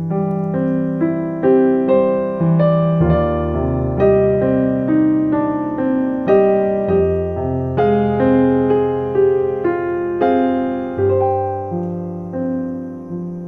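Solo piano music, played gently: notes struck about twice a second over sustained bass notes, each note fading away after it is struck.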